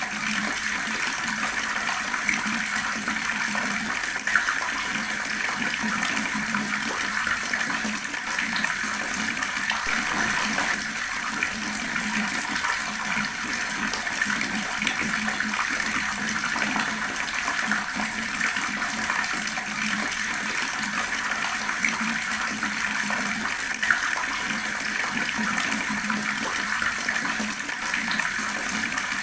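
Water running steadily from an outdoor tap and gurgling as it splashes, with small irregular drips and a couple of slightly louder splashes.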